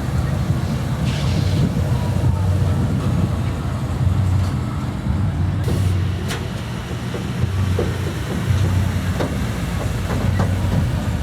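Low, steady engine rumble of a car driving slowly past.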